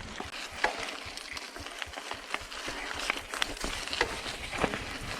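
Mountain bike riding over a rough dirt trail: a steady rush of tyre noise with frequent irregular clicks and knocks as the bike rattles over the ground.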